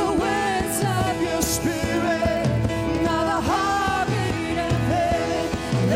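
Worship band music with a singing voice over held keyboard chords, a steady kick-drum beat and occasional cymbal crashes.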